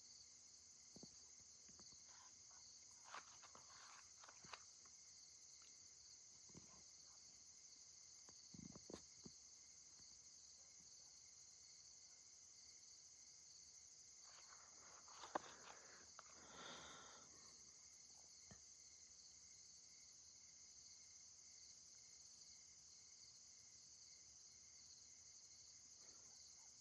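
Faint steady night insect chorus, a high even chirring, with a few faint knocks and rustles now and then, the clearest about halfway through.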